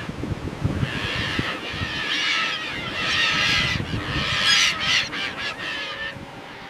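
Birds calling in harsh, noisy bouts, three main bursts, over a steady low rumble.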